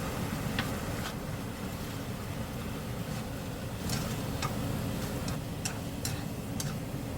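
Steady low hum with about seven light clicks and taps scattered through it, as of kitchen utensils being handled during food preparation.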